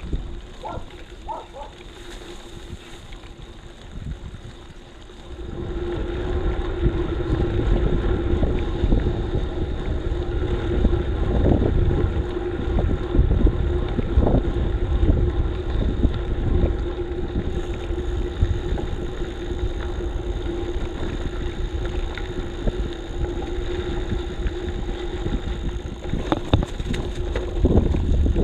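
Wind buffeting the microphone of a bike-mounted action camera while cycling, with a steady hum from the rolling tyres. It sets in loudly about five seconds in, after a quieter opening.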